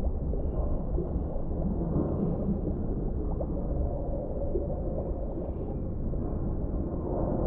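Underwater ambience: a steady, muffled low rumble of deep water with faint bubbling and small ticks, and nothing high-pitched.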